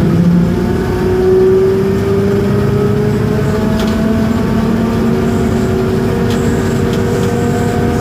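Isobus City 1200 bus in motion, heard from inside: its MAN diesel engine and ZF automatic drivetrain running, with a whine that rises slowly in pitch as the bus picks up speed.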